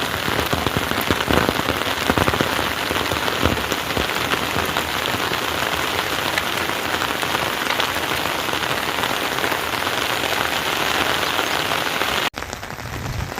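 Heavy rain falling steadily, a dense patter of drops. Near the end it cuts abruptly to a quieter, duller rain sound.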